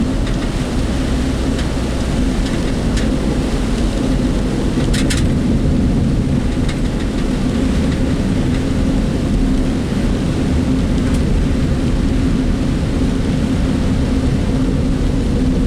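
Inside the cabin of a moving work vehicle in typhoon weather: steady low road and engine rumble with rain noise, and a few sharp rattles from the work vehicle's body, a double one about five seconds in.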